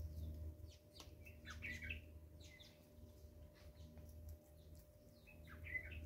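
Birds chirping faintly, short scattered calls one after another over a low steady rumble.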